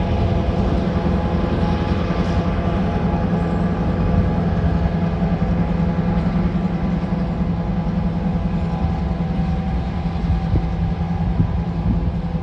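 Diesel locomotive on a freight train running steadily: a constant low engine drone with a rumble underneath.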